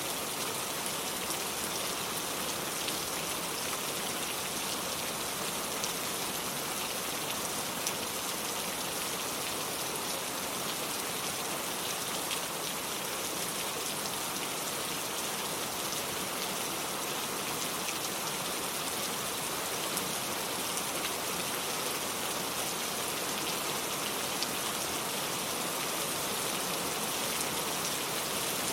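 Steady rain falling: a constant even hiss with many scattered, crisp drop ticks.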